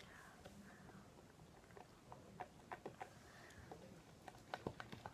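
Faint stirring of glue-based slime mixture in a bowl with a thin wooden stick: scattered light clicks and taps of the stick against the bowl, growing more frequent in the second half.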